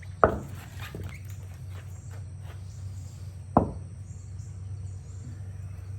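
Two sharp thumps, about three seconds apart, over a steady low hum.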